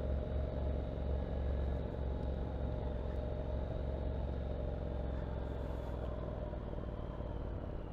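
Motorcycle on the move, heard from a helmet-mounted camera: a steady low engine drone mixed with wind and road noise.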